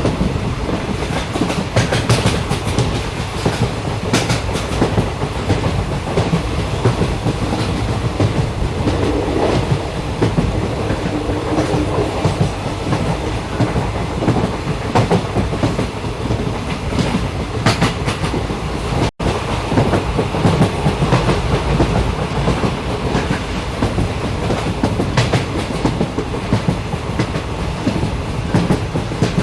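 Train running on the rails: a continuous rumble with wheel clatter over the track joints. The sound cuts out for an instant about two-thirds of the way through.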